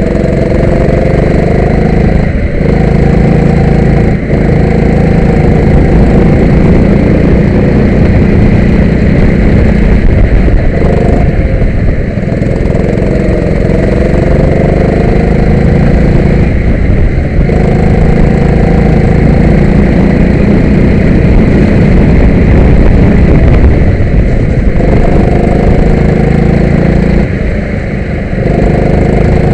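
Go-kart engine running hard and close by. Its pitch climbs steadily several times as the kart accelerates and drops each time the throttle is lifted, about six times.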